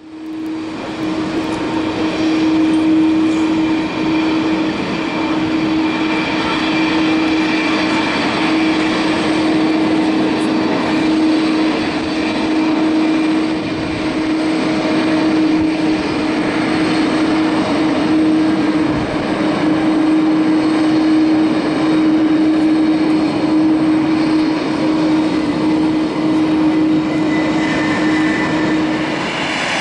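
Jet engines of an Airbus A330-200 running steadily: a constant drone with one strong, even tone over a wide rushing noise, the tone fading out about a second before the end.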